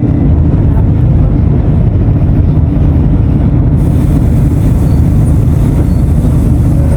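Mercedes-Benz OF-1519 BlueTec 5 bus diesel engine running steadily with a loud, dense low rumble; a higher hiss joins about four seconds in.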